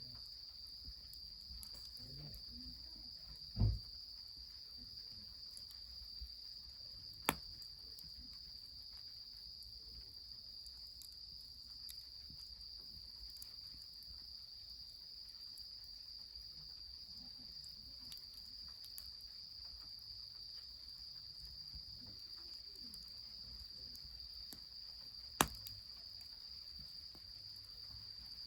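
A steady, high-pitched insect chorus with three sharp pops from a crackling wood fire, spread out across the stretch: one about a third of the way in, one soon after, and one near the end.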